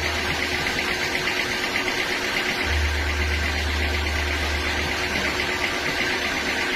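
Sawmill machinery running steadily, with a fast even ticking and a low hum that cuts in about a third of the way through and drops out near the end.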